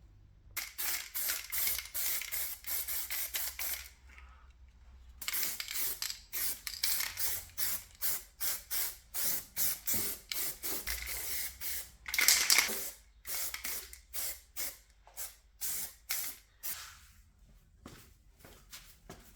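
Aerosol can of underbody coating sprayed in many short bursts, a pause about four seconds in and one longer, louder spray about two-thirds of the way through.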